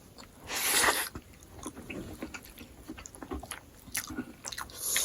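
Close-up mouth sounds of eating smoked pork: a short noisy bite or slurp about half a second in, then chewing with many small wet clicks.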